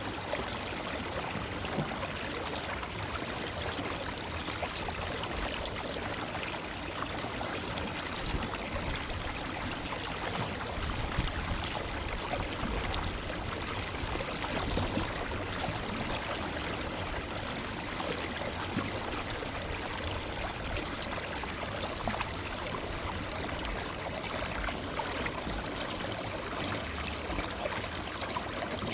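River water flowing over rocks, a steady rushing with small irregular splashes and gurgles.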